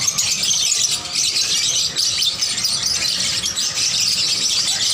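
Dense, high-pitched chatter of many caged small birds chirping at once, a steady mass of overlapping calls.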